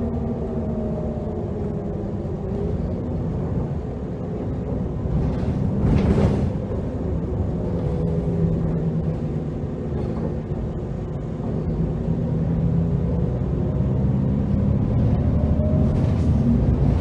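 Heuliez GX327 GNV natural-gas city bus engine running under way, its pitch gliding up and down as the bus accelerates and eases off. A short loud rushing noise comes about six seconds in.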